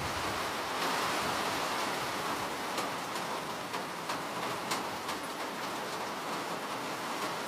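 Steady rain falling: an even hiss of rainfall with a few separate drop ticks standing out now and then.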